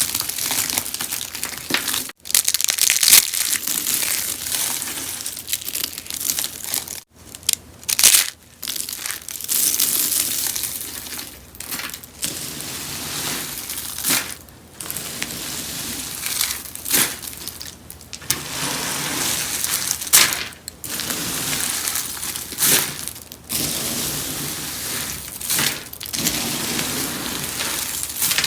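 Rose-shaped soaps being crushed and crunched, a steady dense crackle broken by sharper loud crunches every second or two.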